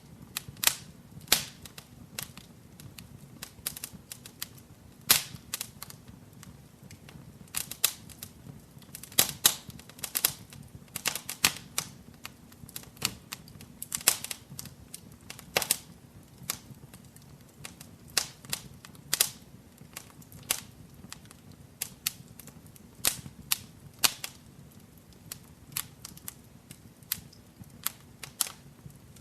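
Wood fire burning in a fireplace, crackling with irregular sharp pops and snaps, some louder than others, over a low steady rumble of the flames.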